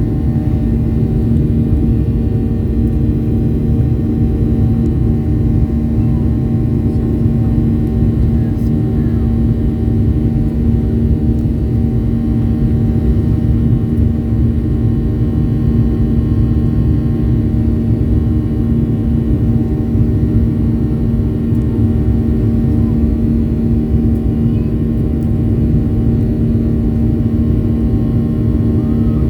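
Boeing 737 jet engines and rushing air heard from inside the passenger cabin in flight: a loud, steady drone with a constant low hum, unchanging throughout.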